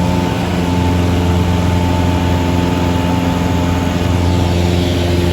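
Aircraft engine running at a steady drone, with a constant hum of several even tones and little change in pitch.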